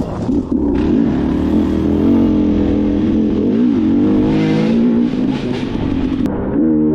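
Two-stroke dirt bike engine running under load on a trail, its note rising and falling with the throttle.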